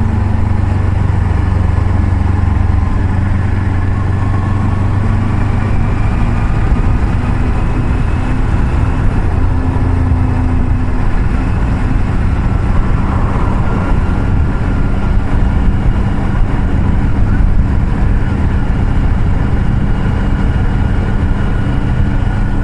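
Motorcycle engine running at a steady road speed, under heavy wind and road noise on the microphone.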